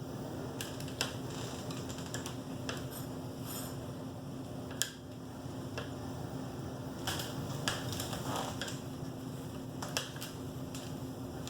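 Scattered light clicks and taps, about a dozen at irregular intervals, over a steady background hum.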